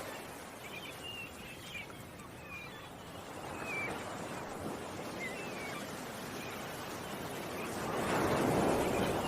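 Ocean waves washing on the shore, one swelling up about eight seconds in, with small birds chirping in short high calls through the first half.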